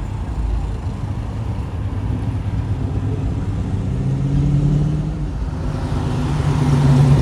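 Classic car engines rumbling as the cars pull away from a car show, with one engine growing louder as it comes closer near the end.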